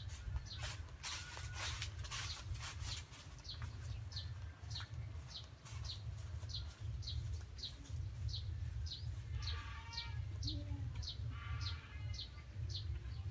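A bird chirping over and over: short, high, falling chirps about two a second. Another call with several tones comes in twice near the end. Clicks and rustling are heard in the first couple of seconds, over a steady low rumble.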